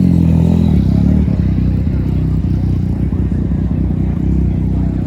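Car engine running at low revs with a deep, uneven exhaust note as a car rolls slowly past.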